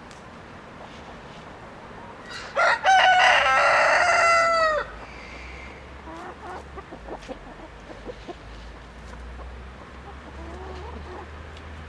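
A rooster crows once, a single call of about two seconds that drops in pitch at the end, starting a couple of seconds in; faint clucking follows.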